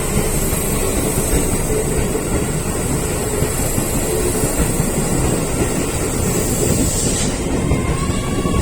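Keio Railway electric train running through the station, with a loud, steady rumble of wheels on the rails and a high hiss.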